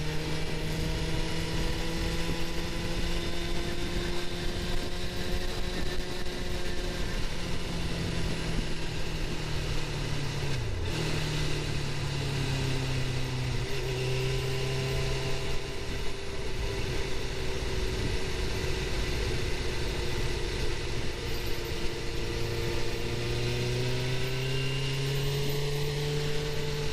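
Suzuki GSX-R750's inline-four engine running under way at a steady cruise. The revs rise and fall gently, with a brief dip about eleven seconds in, over a constant rush of wind and road noise.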